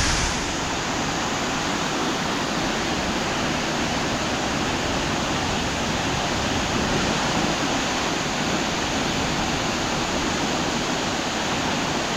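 Waterfall rushing steadily, with heavy rain falling.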